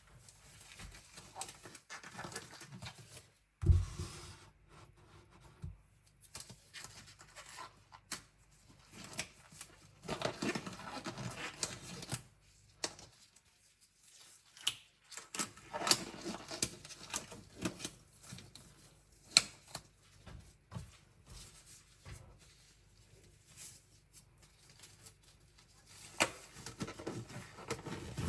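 Small bowls and cutlery being pre-rinsed by hand at a kitchen sink: scattered clinks and clatter of dishes and utensils, with a few spells of a couple of seconds of rinsing noise and one dull knock about four seconds in.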